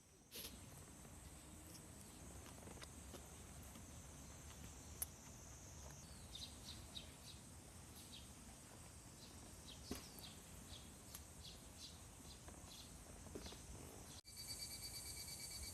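Faint outdoor ambience of insects with a steady high hum, joined about six seconds in by a run of short high chirps. Near the end it changes abruptly to a different, pulsing insect call.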